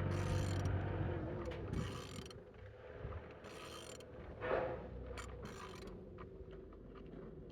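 Engine being turned over by hand: intermittent mechanical rasping and clicking from the rotating assembly and the tool, with a low hum fading out in the first second or so.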